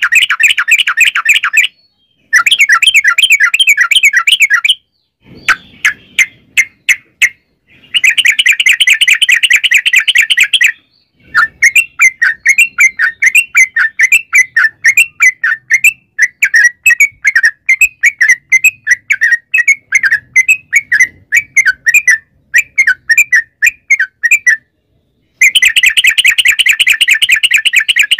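Yellow-vented bulbul (trucukan) singing loudly. It gives long, very fast rolling trills in bursts a few seconds long, broken by short pauses. A longer stretch of slower, bubbling warbled notes fills the middle.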